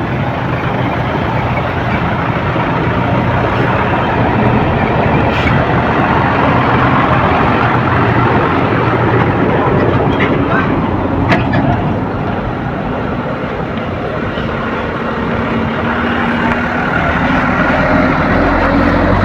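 Heavy vehicles' diesel engines running in slow, jammed traffic: a steady mix of engine hum and road noise, with two short sharp clicks, one about five seconds in and one about eleven seconds in.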